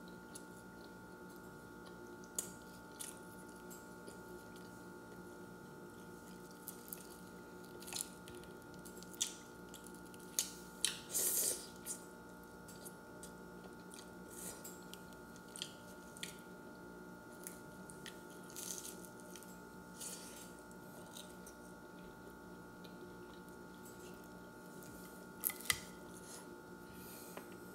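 A person biting and chewing a pan-toasted steak fajita quesadilla close to the microphone: scattered crunches and wet mouth sounds at irregular intervals, with a cluster of louder crunches about ten to eleven seconds in and two sharp ones near the end. A faint steady hum runs underneath.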